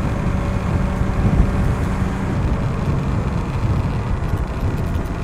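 Yamaha R25's parallel-twin engine running steadily under way, mixed with wind and road noise rushing over the bike-mounted microphone.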